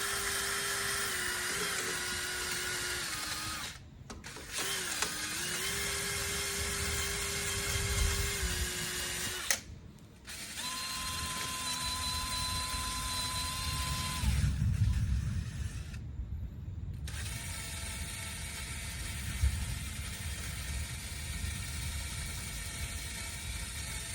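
Electric drill running under the trigger in several long stretches with short pauses between them, its steady whine changing pitch from one stretch to the next.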